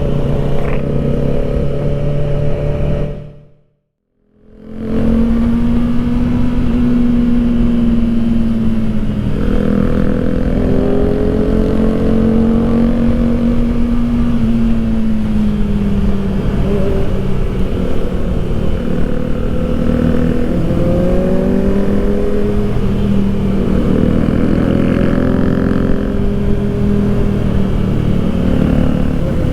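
Kawasaki Ninja ZX-4RR's 399 cc inline-four engine running on the move, its hum slowly rising and falling in pitch with the throttle. The sound cuts out for about a second near the start.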